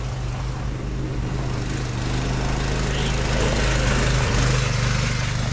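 Off-road buggy engine running steadily under way, growing a little louder through the middle.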